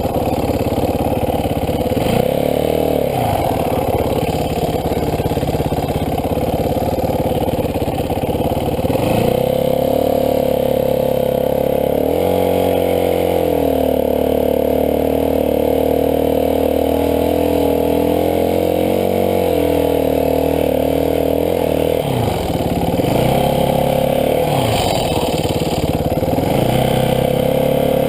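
Dirt bike engine running under way, its revs rising and falling several times as the rider works the throttle and gears.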